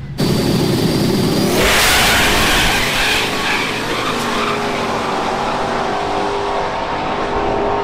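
Car engine running hard at high revs, starting abruptly and then held fairly steady, with a loud rushing noise from about two to four seconds in.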